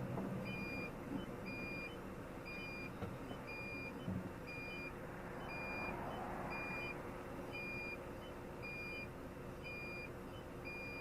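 Electronic warning beeper sounding short, evenly spaced beeps of one pitch, about one a second, over the low steady rumble of a truck's engine.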